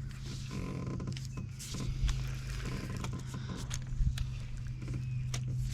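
Steady low hum of a boat motor, with scattered clicks and knocks from reeling in and handling a hooked channel catfish on the rod.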